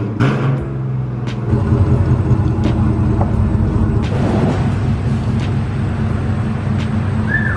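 V8 pickup truck running through a new Carven exhaust with long-tube headers, X-pipe and electronic cutouts: a steady low exhaust rumble that gets a little louder about a second and a half in. A short high chirp comes near the end.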